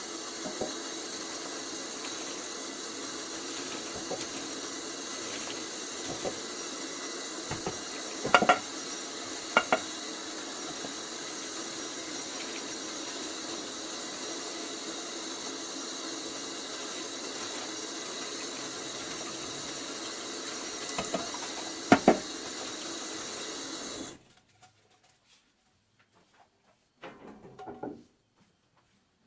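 Kitchen tap running steadily into the sink while dishes are rinsed, with a few sharp knocks of dishes against the sink; the water stops suddenly about three quarters of the way in, leaving only a couple of small handling sounds.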